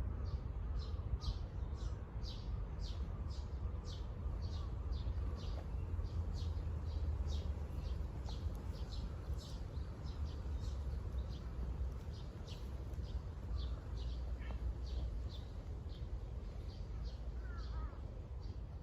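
A bird calling with a short, high chirp repeated about twice a second, over a steady low rumble.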